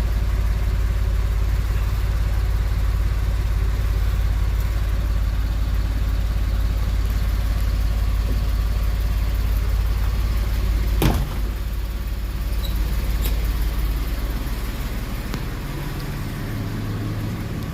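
Porsche 996 Carrera 4S flat-six with a Dansk Super Sport exhaust idling steadily after a cold start. About two-thirds of the way through there is a sharp click, and the engine runs a little quieter after it. Near the end it drops quieter again, as the idle settles.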